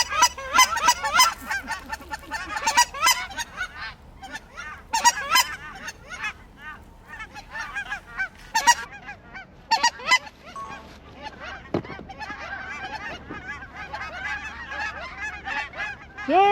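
Canada goose honking: many short honks overlap, densest and loudest in the first few seconds and then thinning out.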